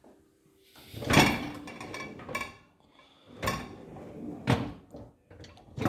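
Dishwasher racks and door being handled: about five sharp knocks with rattling as the baskets slide on their runners.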